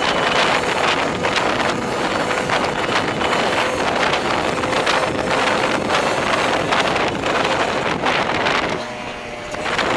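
Heavy wind buffeting the microphone of a fast-moving vehicle, with a faint steady engine tone underneath. The noise dips briefly about nine seconds in.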